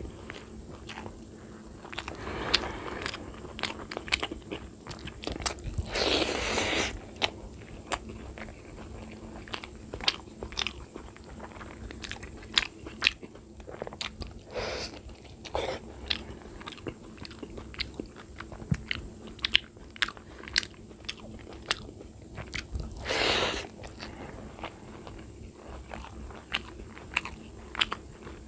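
Close-up eating sounds: a man chewing and biting rice, curry and fried eggplant eaten by hand, with many small wet mouth clicks and smacks. A few louder noises about a second long come around six and twenty-three seconds in.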